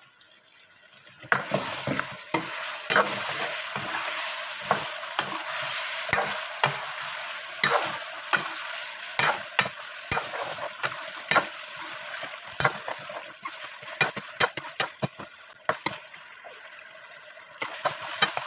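Chicken pieces and ginger-garlic paste sizzling in hot oil in an aluminium pot, starting about a second in. A metal ladle stirs them, scraping and knocking against the pot again and again.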